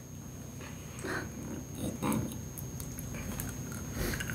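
A child biting into and chewing a Bean Boozled jelly bean: quiet mouth sounds with small clicks and smacks, and a short soft voice sound about a second in.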